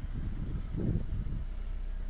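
Vauxhall Cavalier Mk2's S16SH four-cylinder engine idling steadily, fully warmed up, with its ignition timing just set about spot on. A brief louder rumble comes a little under a second in.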